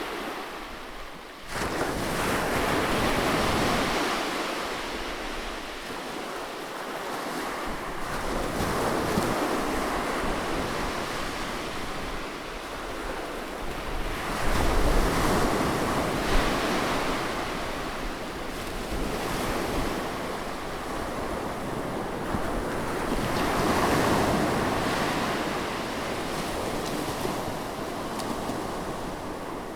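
Sea waves breaking and washing in, the surf noise swelling and fading every few seconds, with a sudden surge about a second and a half in.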